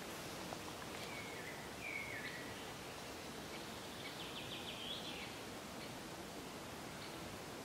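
Quiet woodland ambience with faint birdsong: a couple of short falling calls about two seconds in and a fast trill around four to five seconds.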